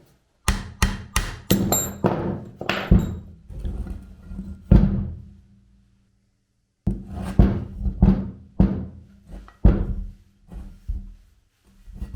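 Repeated hammer blows on metal in two runs of about eight strikes each, with a pause of about a second between them. Some strikes leave a short metallic ring.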